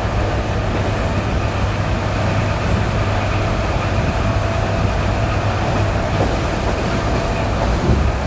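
ED9E electric train running on jointed track, heard from inside the carriage: a steady rolling rumble with a faint steady tone above it, and a couple of wheel knocks at rail joints near the end.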